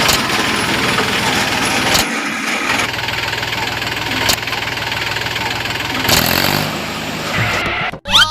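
The small engine of a homemade mini tractor running steadily, with a few sharp clicks. About six seconds in its speed rises briefly, and the sound cuts off abruptly near the end.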